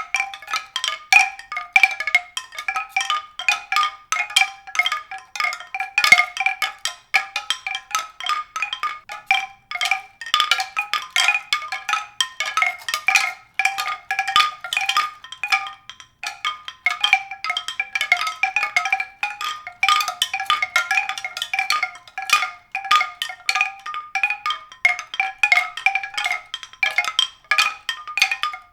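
Rapid, irregular strikes of pitched percussion ringing on a few repeated notes, going on without a break.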